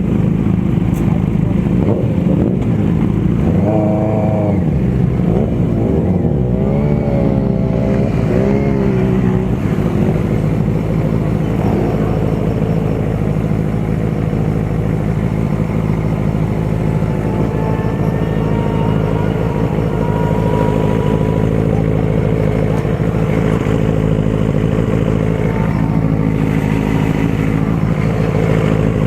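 Motorcycle engine running steadily at cruising speed during a ride, holding an even note with little change in revs.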